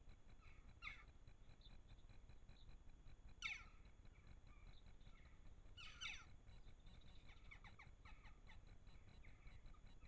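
Birds calling faintly: single short calls that drop in pitch about a second in, at three and a half seconds and at six seconds, then a quick run of calls between seven and eight and a half seconds, over a steady low background hiss.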